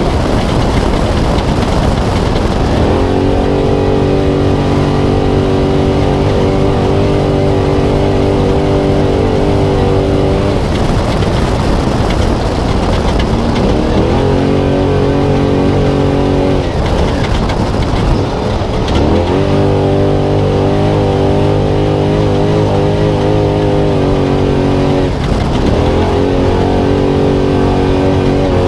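Spec Trophy Truck's V8 engine heard onboard at race pace. It holds steady high revs for several seconds at a time, broken about four times by lifts off the throttle where the pitch drops and then climbs back, over constant rough-terrain and wind noise.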